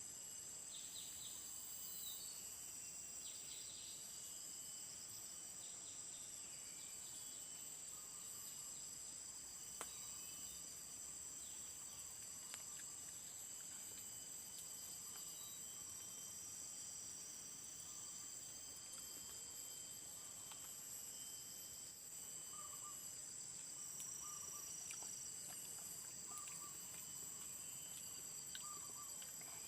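Tropical forest insect chorus: several steady, high-pitched trills running together, with scattered short chirps and a few short repeated calls in the last third.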